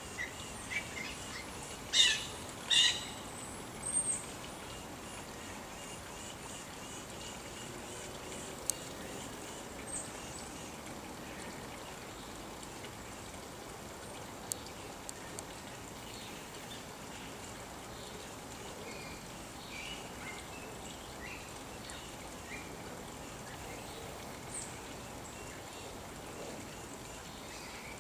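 Birds calling: two loud short calls close together about two seconds in and another near four seconds, then scattered faint chirps later, over a steady outdoor background hiss.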